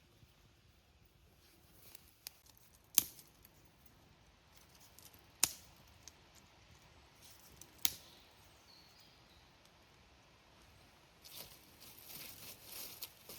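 Three sharp snaps, about two and a half seconds apart, then a few seconds of crackling rustle near the end.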